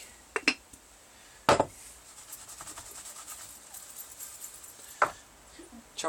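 Kitchen handling sounds as food is prepared: a few sharp knocks of things set down on a hard surface, with a faint, fast rubbing or scratching between them.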